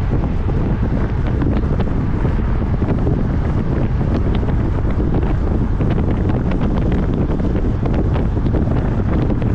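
Steady wind buffeting the microphone while riding a road bike at speed: a constant low rumbling rush with scattered faint clicks.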